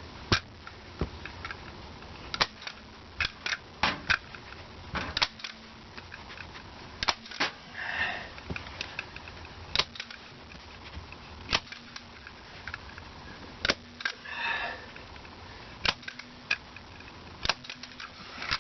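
Staple gun driving staples through carpet into the wooden steps: a series of sharp snaps at irregular intervals, with a couple of brief rustles of the carpet in between.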